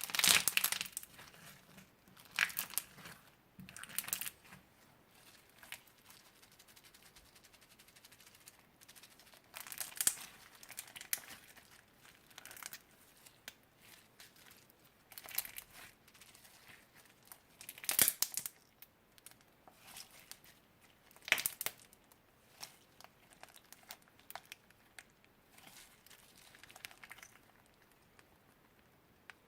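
Slime being handled and squeezed, crinkling and crackling in irregular bursts with quiet gaps between; the sounds die away a few seconds before the end.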